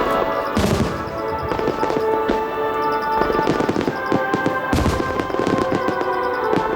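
Starmine fireworks barrage: many shells bursting and crackling in quick succession, with heavier booms about half a second in and again near five seconds, over music playing with the show.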